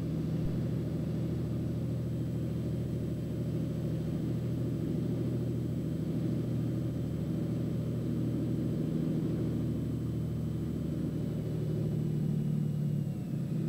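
Turbocharged Cessna 206's six-cylinder piston engine and propeller droning steadily in the cockpit at approach power on short final.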